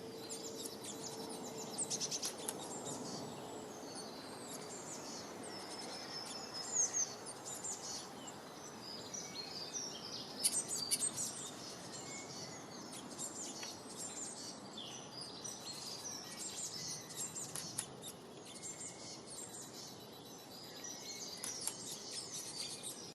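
Small birds chirping and singing, many short high calls and trills overlapping, over a steady background hiss.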